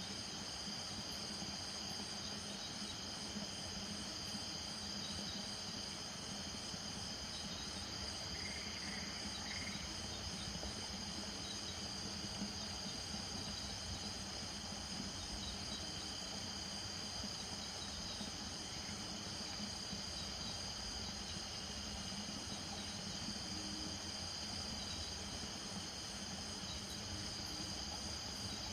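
Night chorus of crickets trilling steadily at several overlapping high pitches, one of them pulsing rapidly. Beneath it runs a steady low drone, typical of a distant chorus of frogs and toads in a marsh.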